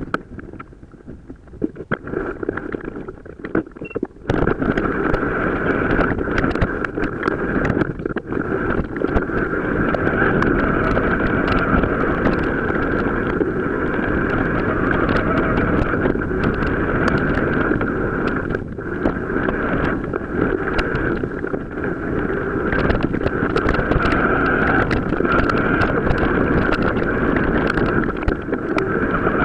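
Wind on the microphone and tyre rumble from a mountain bike riding off road, with a steady high hum over it; it gets louder about four seconds in.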